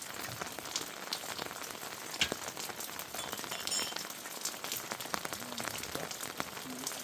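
Heavy rain falling steadily, a dense patter of drops with many sharp individual drop clicks, one louder tap about two seconds in.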